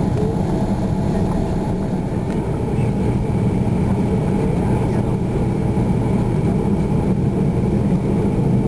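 Steady low rumble inside an Airbus A330 cabin, engines at idle while the airliner waits for departure, with a faint steady whine over the top.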